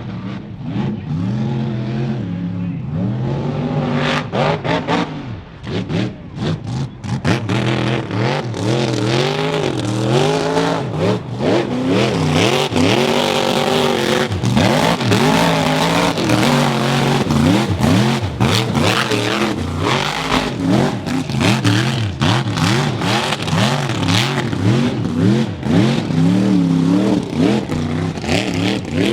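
A mud truck's engine revving hard again and again, its pitch swinging up and down, with many short sharp cracks mixed in.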